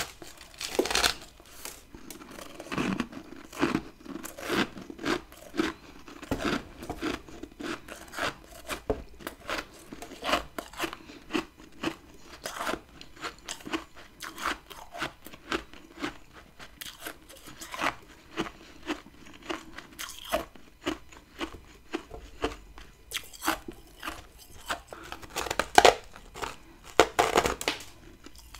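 Close-up crunching as chunks of freezer frost ice are bitten and chewed, sharp crunches coming about one to two a second.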